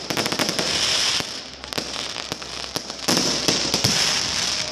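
Many fireworks going off at once: rapid sharp bangs and crackling from aerial bursts, with a dense flurry of pops in the first second and another from about three seconds in.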